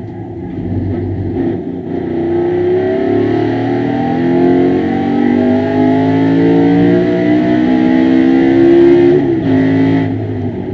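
BMW E92 M3 GS race car's V8 engine at full throttle, heard from inside the cockpit. It revs up hard, rising in pitch and getting louder as the car accelerates, then falls sharply in pitch about nine seconds in.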